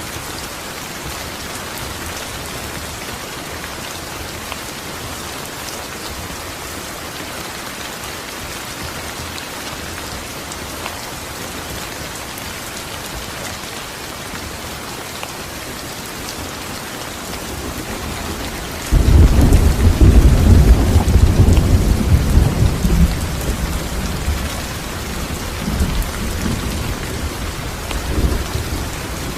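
Steady heavy rain. About two-thirds of the way through, a sudden loud, deep rumble of thunder breaks in, rolls for several seconds and dies away, with a smaller swell of rumbling near the end.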